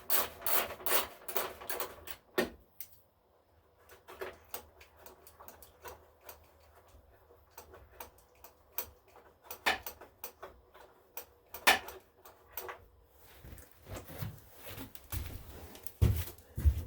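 A hand ratchet clicking in quick strokes as screws are backed out, followed by scattered clicks and knocks of tools and small parts, and a few dull thumps near the end.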